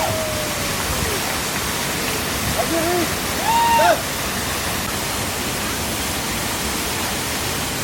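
Steady rush of a waterfall pouring into a pool, with a short call from a voice about three seconds in.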